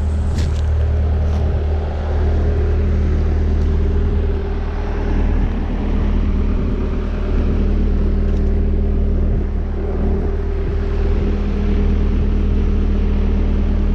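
Bobcat skid-steer loader's diesel engine running steadily, a constant low drone with a steady hum above it.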